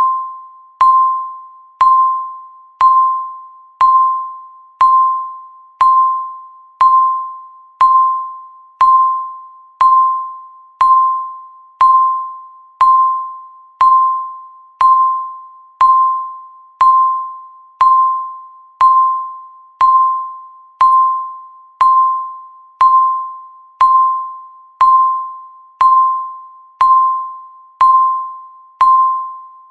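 Countdown timer's tick sound: one short bell-like ping every second, each fading away before the next, marking off the seconds as the timer counts down.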